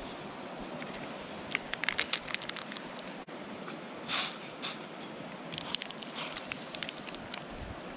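Campfire crackling, with irregular sharp snaps in clusters and a short rush of noise about four seconds in.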